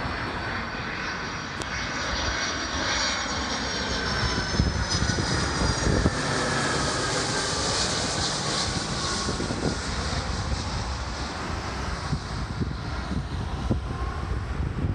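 Boeing 757 twin-jet airliner passing low overhead on a go-around. Its engines give a steady rumble and hiss, with a whine that falls gently in pitch as it goes by.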